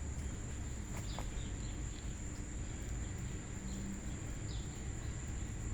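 Summer outdoor ambience: a steady high-pitched insect trill, typical of crickets, with a few short bird chirps and a low rumble underneath.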